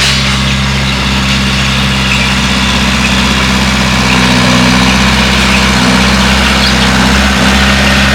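Bulldozer's diesel engine running steadily with a deep, even drone that grows a little louder a few seconds in.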